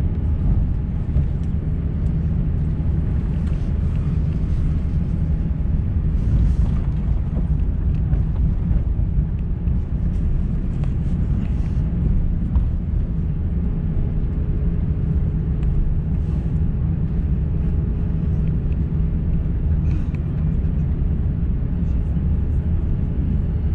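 Steady low rumble of an Airbus A350-900 heard from inside the passenger cabin, with a faint steady hum coming in about halfway through.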